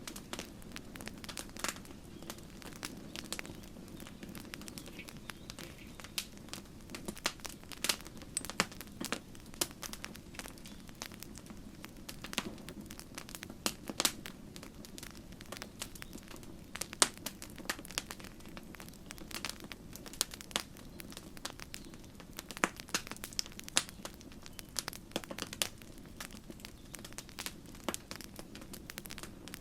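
Campfire crackling, with frequent sharp, irregular pops and snaps of burning wood over a steady low rush of the flames.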